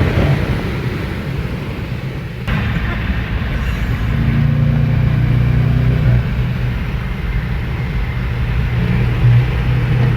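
Car engine running on the road, a steady low drone, with a sudden change in sound about two and a half seconds in.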